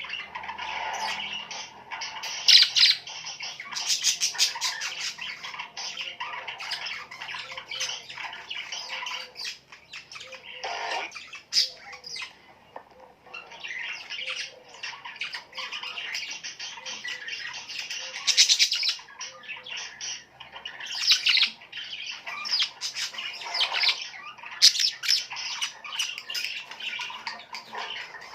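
Many small birds chattering continuously, with dense chirps and sharper squawks that keep overlapping.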